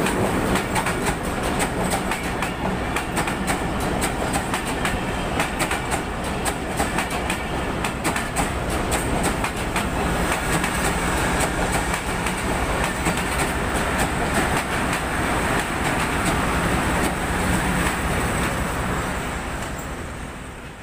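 Pakistan Railways passenger coaches of an express train running past close by, their wheels clattering over the rail joints in a fast, steady clickety-clack. The sound dies away near the end.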